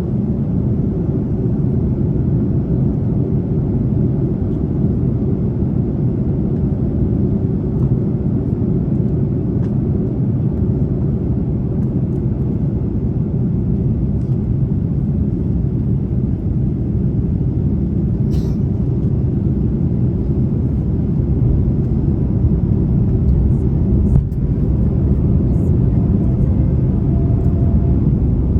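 Airbus A330 cabin noise on final approach: a steady low rumble of engines and airflow heard inside the cabin, with a single sharp click about two-thirds of the way through.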